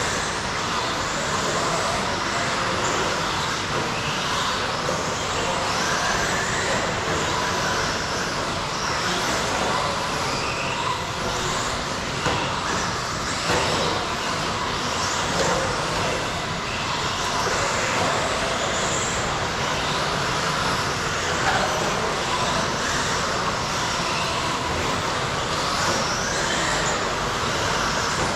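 A field of radio-controlled stadium trucks racing, their electric motors whining up and down in pitch over steady tyre and track noise.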